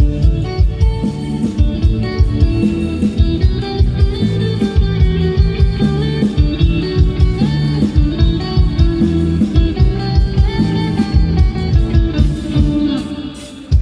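Instrumental break of a live band: a guitar plays the lead over bass and drums with a steady beat, dropping back briefly near the end.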